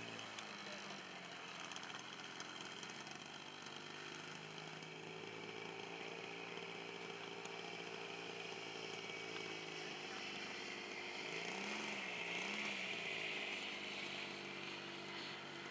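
Radio-controlled model airplane engine running steadily with a buzzing tone. Its pitch dips and rises twice, and it grows louder about twelve seconds in.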